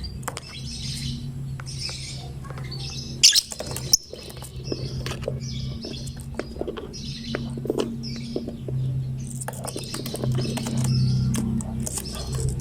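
Lovebird chattering: a run of short scratchy chirps repeating about every half second, with one loud sharp call about three seconds in. A steady low hum runs underneath.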